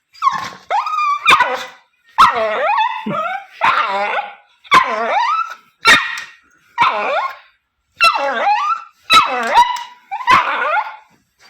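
Dog barking and whining: a run of about ten loud, drawn-out pitched calls, roughly one a second, each bending up and down in pitch.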